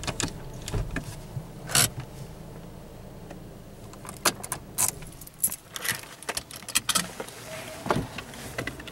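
Car engine idling low, with scattered clicks and rattles of keys and small objects being handled in the cabin.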